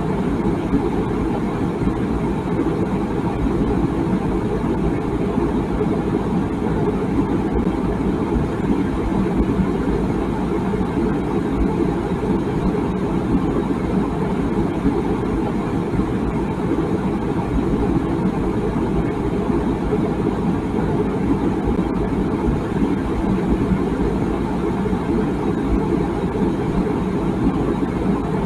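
Water boiling in a tea kettle: a steady, low rumbling bubble with no whistle.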